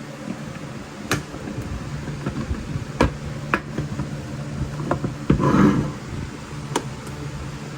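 Scattered sharp knocks and clicks, about five of them, over a steady low hum, with a short rougher burst of noise a little past halfway.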